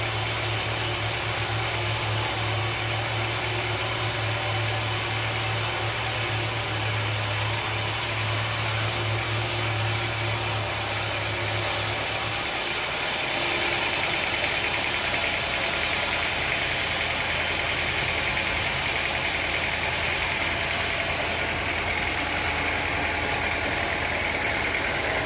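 Sawmill machinery running steadily with an engine-like hum. About halfway through, the hum's pitch changes and a higher steady whine comes up over it.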